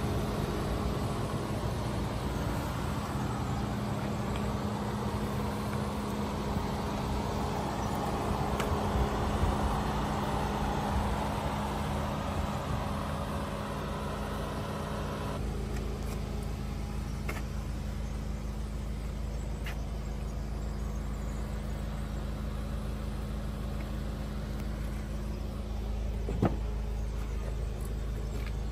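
Volkswagen Golf GTI's 2.0 TSI four-cylinder turbo engine idling with a steady low hum. About halfway through the sound changes abruptly, and a few light clicks follow.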